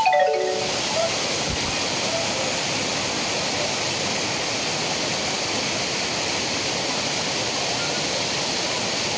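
Steady rush of a waterfall's falling water, an even, unbroken roar.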